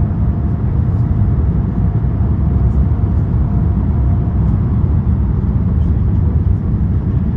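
Steady low rumble of cabin noise inside an Airbus A350-900 climbing shortly after takeoff: its two Rolls-Royce Trent XWB engines and the rushing airflow, with a faint steady tone above the rumble.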